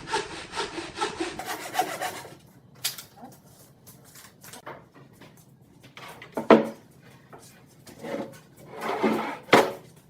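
Saw cutting wood in fast, even strokes, which stop after about two seconds. Scattered wooden knocks and clunks follow, the loudest two close together near the end.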